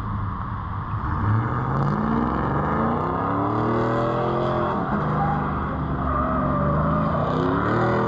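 Distant supercharged Chevrolet V8 revving: the engine pitch climbs about a second in, holds, drops briefly near five seconds, then climbs again near the end.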